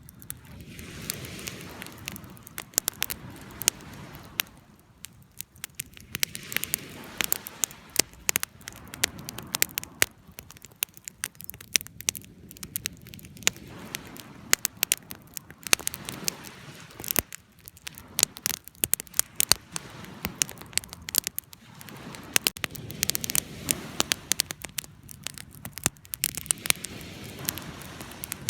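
Wood campfire crackling, with frequent sharp pops and snaps over a soft rushing of flames that swells and fades every few seconds.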